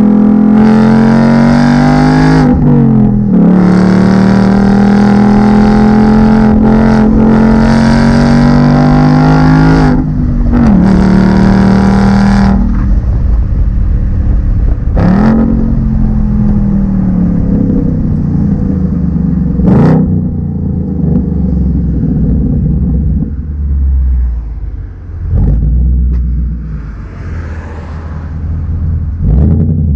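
2019 Ford Mustang GT's 5.0-litre V8 accelerating hard through the gears. Engine pitch climbs steadily and drops at gear changes about two and a half seconds in and again about ten seconds in. After about twelve seconds it eases off to a quieter, lower drone, with a couple of quick rises and falls in pitch.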